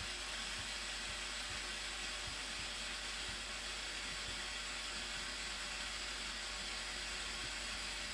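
Steady, unbroken rush of water pouring over the Blue Nile Falls, a hissing haze with no breaks.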